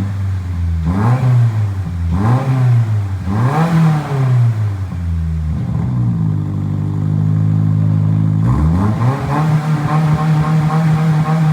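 2025 Subaru WRX's turbocharged flat-four revving through its exhaust: three quick blips from idle, each rising and falling. It settles back to idle, then about two-thirds of the way through the revs climb and are held steady at a higher speed.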